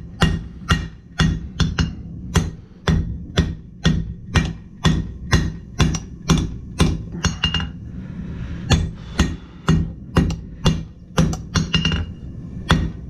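Blacksmith's hand hammer striking hot steel on an anvil, forging the bar toward a square section. The blows fall steadily at about two a second with a ringing note, including a few quick double strikes and a brief pause about two-thirds of the way through.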